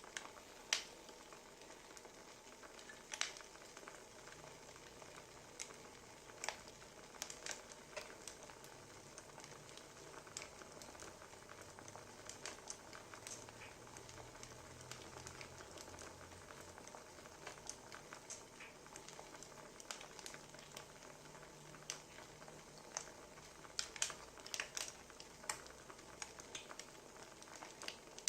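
Wood fire crackling: a steady soft hiss with irregular sharp pops and snaps, a quick cluster of louder pops near the end.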